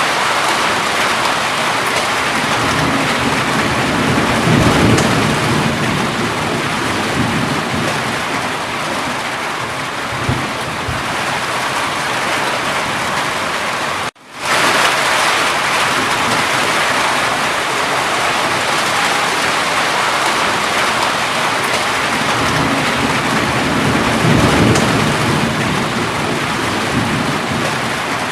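Steady heavy rain falling, with a low rumble of thunder swelling twice, about five seconds in and near the end. About halfway through the sound cuts out almost to silence for a split second, then the rain resumes.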